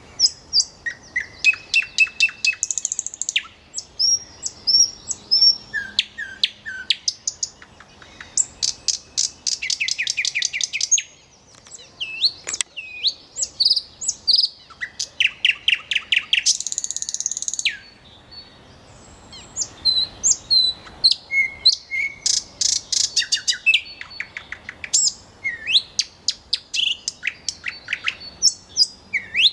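Common nightingale singing a long run of varied phrases: fast trains of repeated notes and rapid trills alternate with clear whistled notes, with short pauses between phrases.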